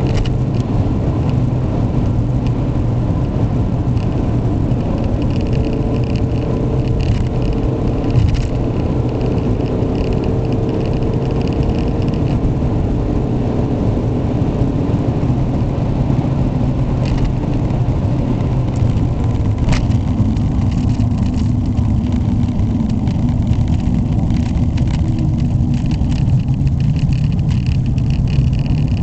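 Ford Mondeo Estate's 1.6-litre petrol engine running at a steady road speed, with tyre and road rumble, which the owner calls very noisy and rev-lazy.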